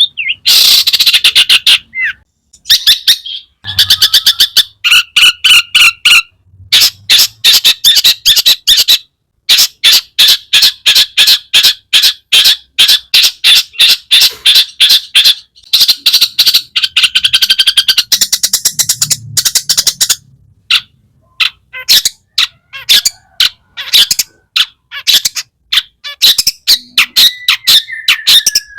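Long-tailed shrike singing loudly: runs of rapid, harsh, scratchy chattering notes lasting a second or two each, separated by short pauses, with a few clear whistled notes mixed in, one of them gliding down near the end.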